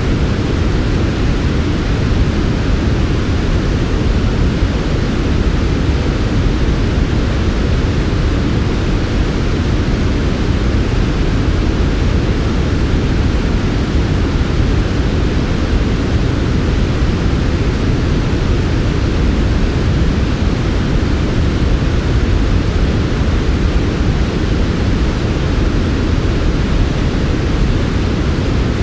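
Steady, unbroken synthetic white noise, softened so it sounds deep and smooth rather than hissy, with most of its weight in the low end.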